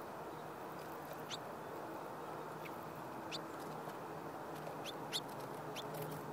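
Small birds at a seed feeder giving short, sharp high chip calls, about six scattered over a few seconds, over a steady background hiss and low hum.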